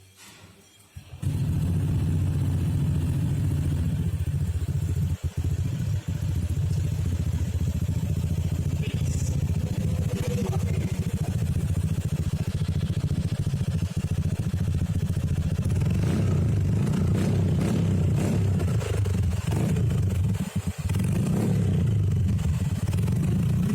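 Honda PCX 150 scooter's single-cylinder four-stroke engine running through an aftermarket carbon-kevlar slip-on exhaust. It comes on suddenly about a second in and then runs steadily with a deep, bassy exhaust note.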